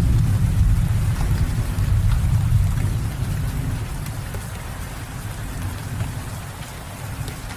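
Steady rain falling, with scattered drop ticks, under a low rumble of thunder that fades away over the first half.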